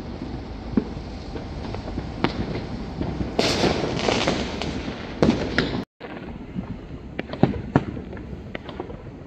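Fireworks going off: scattered bangs and crackles, with a louder hissing, crackling burst about a third of the way in, over a steady low rumble. The sound cuts out for a moment about two-thirds of the way through.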